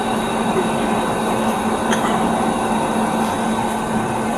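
Steady outdoor mechanical hum with a constant low tone under a wash of noise, and a faint short click about two seconds in.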